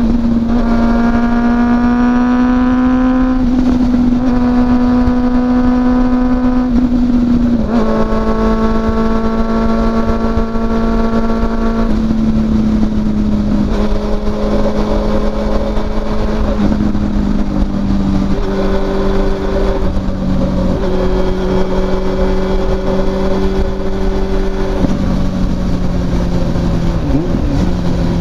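Honda CB400SF's inline-four engine running steadily at high revs through a WR'S slip-on muffler while cruising, its pitch sagging slightly a couple of times. Wind and road rumble run underneath.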